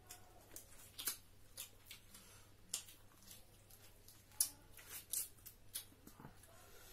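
Close-up eating sounds: irregular wet mouth smacks and clicks of chewing, about fifteen in all, the loudest about four and a half seconds in.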